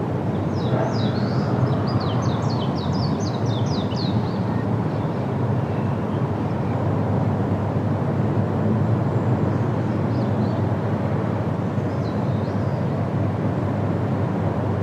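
Steady wind rushing through trees, with a bird singing a quick series of about a dozen short, high, falling notes in the first few seconds and a few faint calls later.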